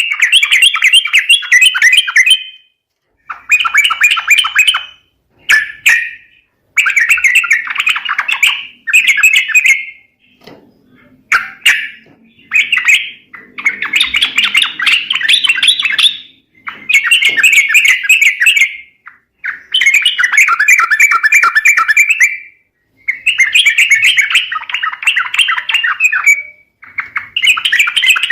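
Yellow-vented bulbul (trucuk) calls played as a bird-trapping lure: loud bouts of rapid chattering, each a second or two long, repeating with short gaps between.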